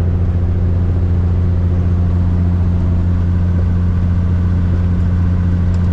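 Caterpillar diesel engine of a Peterbilt 362 cabover truck running with a steady, deep drone at highway cruise, heard inside the cab.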